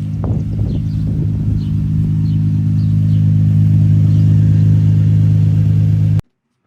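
Infiniti G35's VQ35DE V6 running at a steady idle through a Z1 exhaust with Tomei piping, a deep even rumble. It cuts off suddenly near the end.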